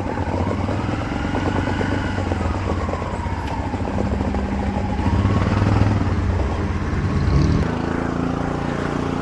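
A motor vehicle's engine running close by, its pitch rising and falling, growing louder about five seconds in and shifting in pitch near the end.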